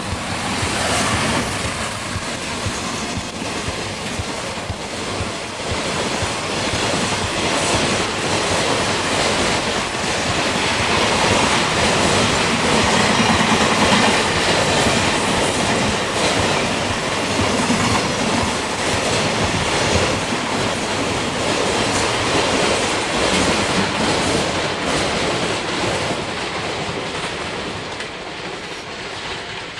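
JR Freight EF210 electric locomotive and its long train of container flat wagons rolling past on the rails, a steady dense rumble of wheels and wagons that fades over the last several seconds as the train moves away.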